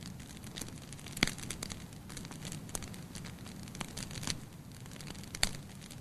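Wood fire in a fireplace crackling, with sharp pops scattered irregularly over a steady low sound of burning. The loudest pops come about a second in and near the end.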